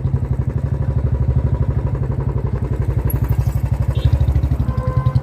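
Motorcycle engine running steadily while being ridden, a rapid, even beat of firing pulses.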